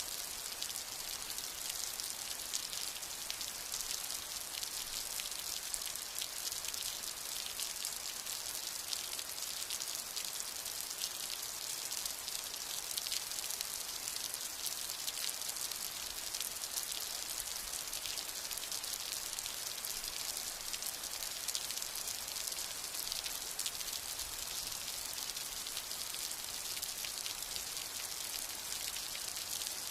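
Steady rain falling: an even, high hiss made up of countless fine drop taps, with no thunder.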